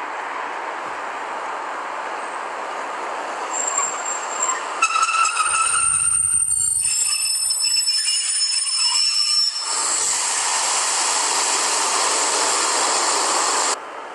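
Diesel locomotive hauling a train of coaches slowly through a station: a steady rolling rumble, then high-pitched wheel squeals for about five seconds from the middle, followed by louder rolling noise that cuts off abruptly near the end.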